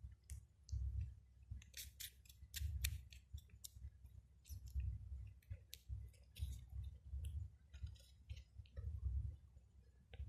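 Cats at close range: a run of sharp wet clicks and smacks over a low rumble that swells about once a second.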